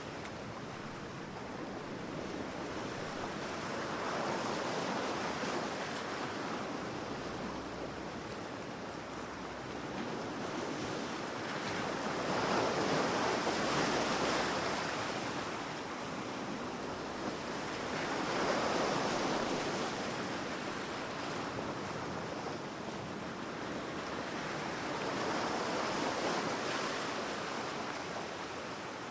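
Ocean waves breaking and washing up a beach, the surf swelling and fading about every six or seven seconds, loudest about twelve to fourteen seconds in.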